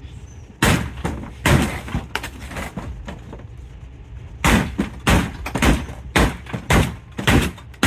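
A series of hard knocks and bangs: three in the first two seconds, then a run of about six, roughly one every half second, in the second half.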